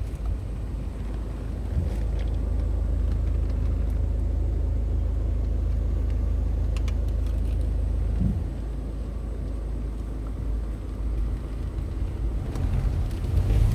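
Steady low rumble of a car driving, its engine and road noise heard with a few faint ticks.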